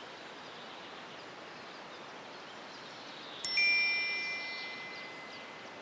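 A single bright chime sound effect about three and a half seconds in, ringing with several clear high tones and fading away over about two seconds, over a faint steady outdoor hiss.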